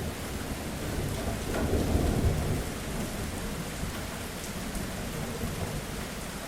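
Steady heavy rain over a low roll of thunder that swells about two seconds in and then slowly fades.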